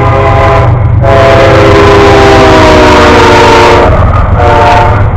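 Freight locomotive's multi-chime air horn sounding in separate blasts: one ending about a second in, a long blast whose pitch sags slightly as the train passes, then a short blast near the end. A steady low engine rumble runs under the horn.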